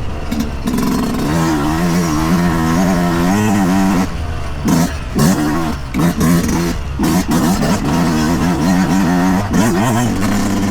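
2023 Yamaha YZ125's 125 cc two-stroke single-cylinder engine running under a rider, revving up and down. The throttle closes briefly several times between about four and seven seconds in, then the engine pulls more steadily.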